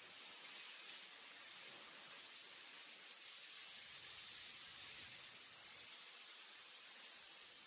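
Steady, faint hiss.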